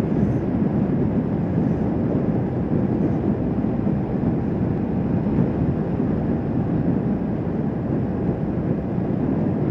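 Wind rush on the microphone over the engine of a Kawasaki Vulcan S 650, a parallel twin, running steadily while riding at cruising speed.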